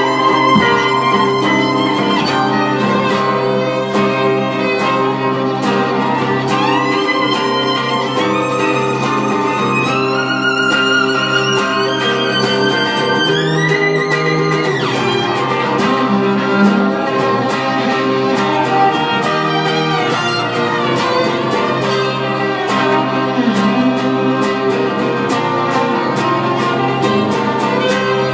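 Instrumental break in a folk song: a fiddle plays the melody with sliding notes over a steady accompaniment with held notes and regular strokes.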